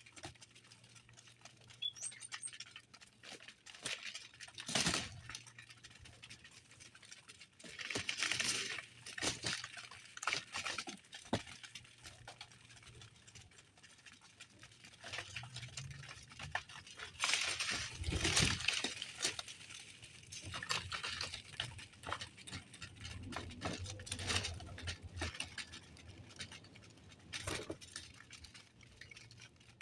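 Small birds busy at a feeder: irregular pecking, taps and scrabbling, with short wing flutters and a faint high chirp about two seconds in.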